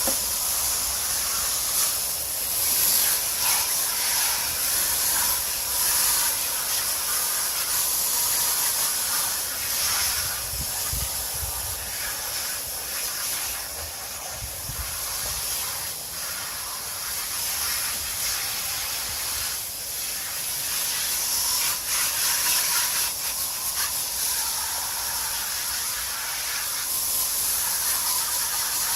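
Garden hose spraying water onto an air-conditioning coil, a steady hiss of water jet that keeps on with small swells and fades out right near the end.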